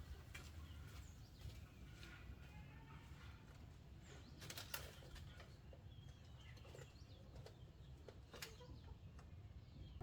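Quiet outdoor ambience: faint bird chirps with a few scattered soft clicks, the most distinct about halfway through.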